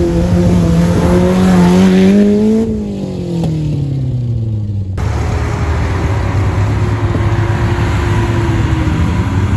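An engine under load: its pitch climbs for about two and a half seconds, then falls away. After an abrupt change about five seconds in, an engine runs at a steady lower pitch.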